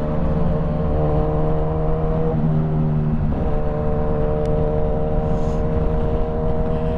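Motorcycle engine running at a steady freeway cruise, its tone holding an even pitch apart from a brief dip and recovery in the middle, over low wind rumble on the microphone.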